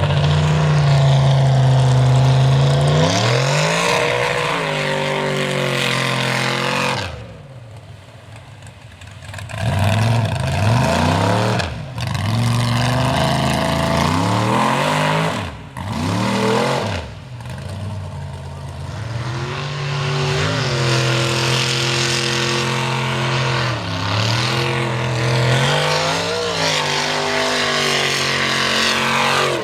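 Mega truck engine revving hard, its pitch climbing and falling again and again as the throttle is worked, with a lull of a couple of seconds about seven seconds in before more short, sharp revs.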